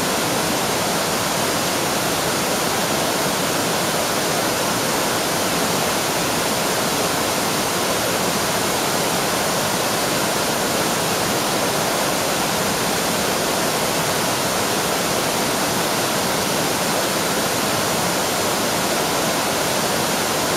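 Waterfall pouring steadily into its pool: a constant, even rush of falling water with no change or break.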